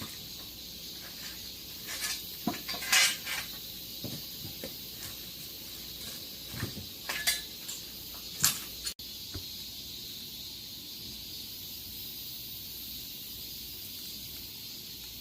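Wood fire crackling under a cast-iron cauldron of simmering eels: scattered sharp pops and snaps over a steady hiss. The pops stop about nine seconds in, leaving only the hiss.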